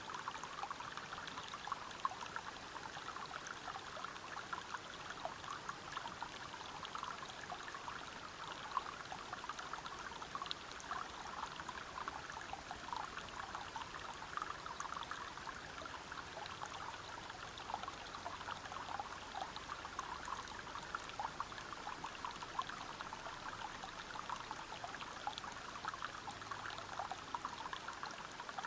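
River water flowing and splashing over rocks: a steady rush flecked with constant small splashes.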